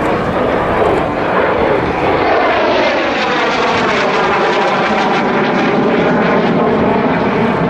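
Blue Impulse Kawasaki T-4 jets flying past, loud and steady jet noise with a whine that sweeps down and back up as they pass.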